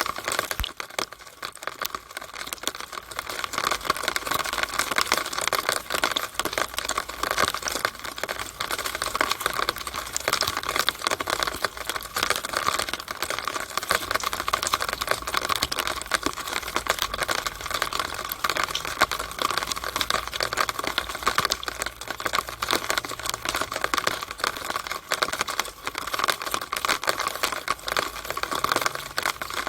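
Rainwater running from a downspout on a rainy day: a dense, irregular patter of drips and splashes, like rapid tapping.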